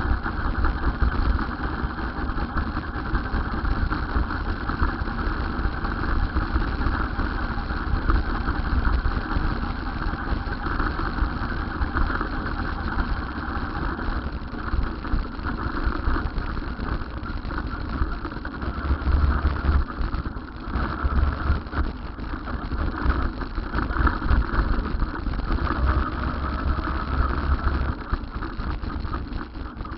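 Steady vehicle running noise with a low rumble underneath and no clear breaks.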